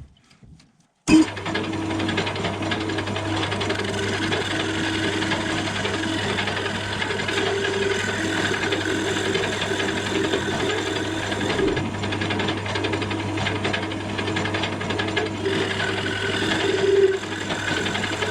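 An electric lathe starts about a second in and runs steadily while a cutting tool scrapes and rasps against a spinning plywood blank, turning it into a pulley.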